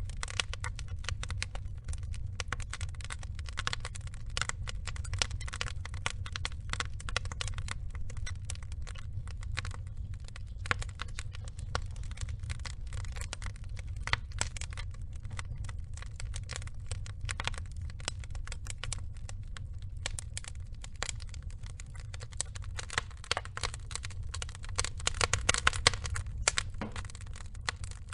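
Burning logs crackling: dense, irregular pops and snaps over a low steady rumble, growing busier and louder for a few seconds near the end.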